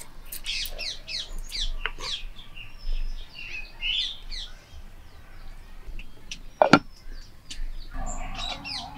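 Birds calling in many short, quick, high-pitched chirps, with a single sharp knock late on that is the loudest sound.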